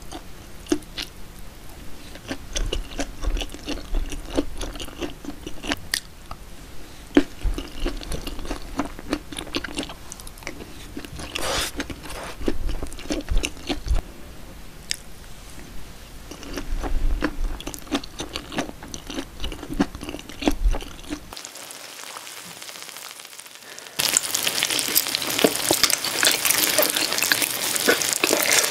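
Close-miked chewing and crunching of pan-toasted cheesy corn, with scattered sharp clicks. About three-quarters of the way through it gives way to a few seconds of faint hiss, then a louder, denser crackle of eating sounds.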